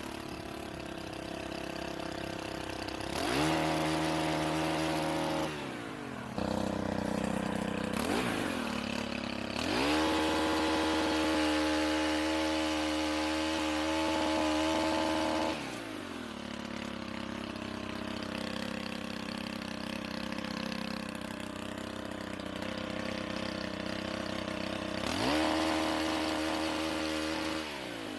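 Stihl pole chainsaw's small engine idling and revved up to full speed several times: three long runs of a few seconds each and one short blip, the pitch climbing as it speeds up and dropping back to idle.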